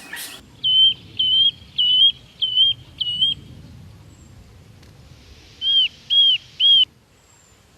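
A bird calling a repeated clear whistled note: five notes in quick, even succession, a pause, then three more. Fainter, higher chirps from other birds sound behind it.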